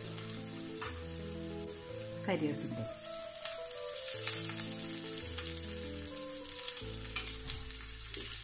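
Sliced shallots and mustard seeds frying in hot coconut oil for a tempering: a steady sizzle with many small pops as the shallots brown. Soft background music with held notes plays underneath.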